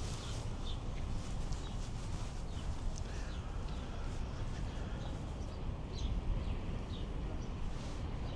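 Open-air market ambience: a steady low rumble, with scattered short, sharp clicks and taps throughout, like footsteps on hard pavement.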